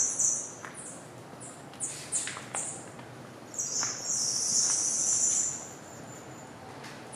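Small birds chirping: a series of short, high-pitched chirps, then a longer chattering call about four seconds in.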